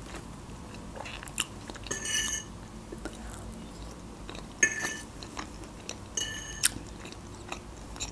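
Close-miked eating: chewing with small wet clicks, and three brief squeaks about two, four and a half, and six seconds in.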